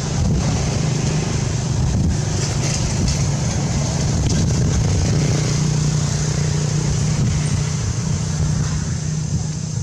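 A motor vehicle's engine running steadily, with a steady low hum that grows a little stronger partway through, over a constant high hiss.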